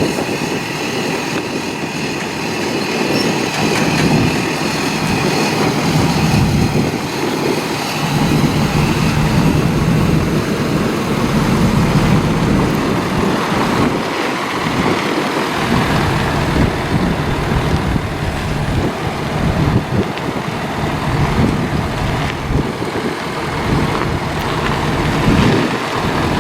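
A motor vehicle's engine running steadily, with a continuous low rumble that swells and eases.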